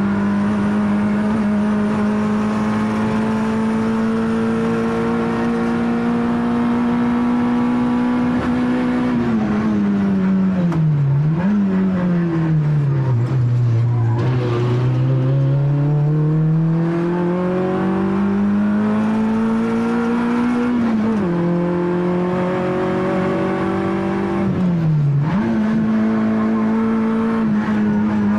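Peugeot 106 Rallye's four-cylinder engine heard from inside the cabin, driven hard uphill. The revs are held high and rise slowly, then fall under braking with a quick blip on a downshift. They drop low through a slow bend and pull steadily back up, then fall sharply once at a gear change, and near the end fall again with another sudden blip.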